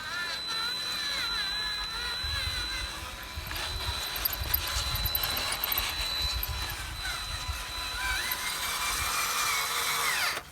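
Electric motors of a remote-control construction truck whining, the pitch rising and falling as the throttle changes, over a steady high tone. A low rumble comes in through the middle, and the sound cuts off suddenly at the end.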